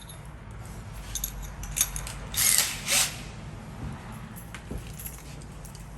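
Cordless drill run in two short bursts about two and a half seconds in, with a few clicks and handling knocks before them.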